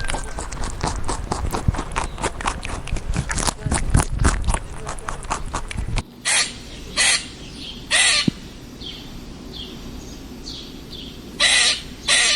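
Crow cawing: five short caws in the second half, over faint chirps of smaller birds. Before them comes a clatter of rapid clicks over a low rumble.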